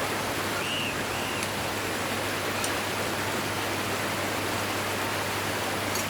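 Forest stream water running in a steady rush, with two short high chirps about a second in.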